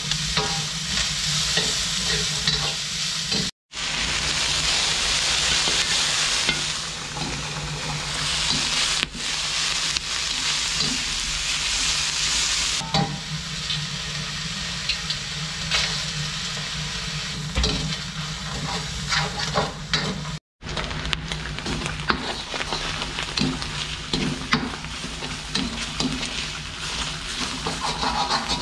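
Sliced red onions sizzling in hot oil in a large metal wok. A metal spatula scrapes and clinks against the wok as they are stirred. The sizzle is loudest in the first half, and the sound breaks off briefly twice.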